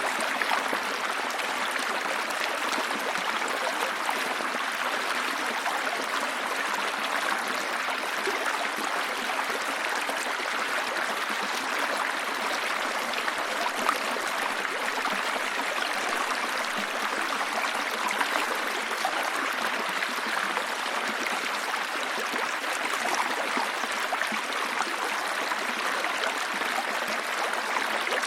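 Running water from a small waterfall or stream, a steady rush and splash.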